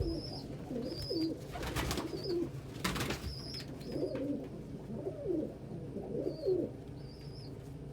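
Pigeons cooing, several rising-and-falling coos with the most in the second half. There are short high peeps throughout and two brief rushes of noise in the first half.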